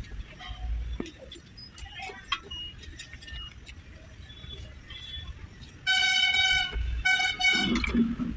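A vehicle horn honks twice, a long blast of about a second and then a shorter one, loud and steady in pitch. Before it there are faint clicks and brief distant beeps.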